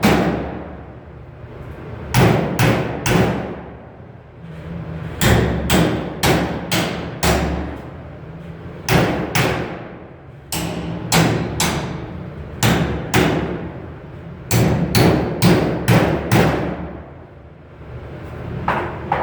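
Hammer blows on sheet metal, in bursts of four to six quick strikes with short pauses between the bursts.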